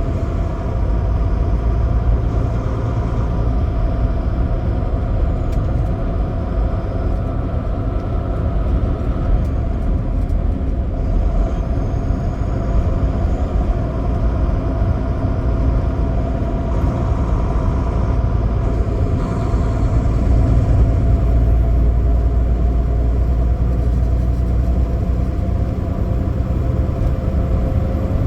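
Big-rig semi truck driving: a steady low rumble of engine and road noise, with faint engine tones that shift slightly in pitch.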